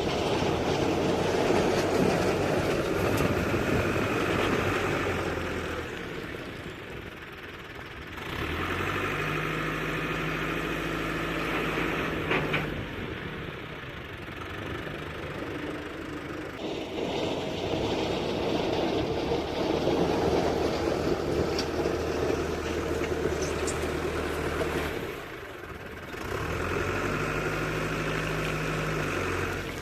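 Diesel engine of a working tractor or excavator running under changing load. Its sound shifts abruptly several times, between a fuller running note and a lower, steadier one.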